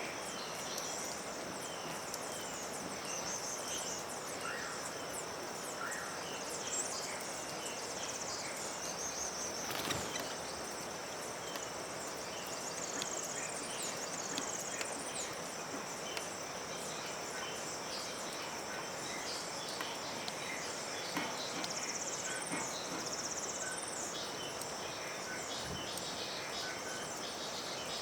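Outdoor ambience of a steady, high-pitched insect drone with scattered bird chirps and short sweeping calls over it, and a single brief knock about ten seconds in.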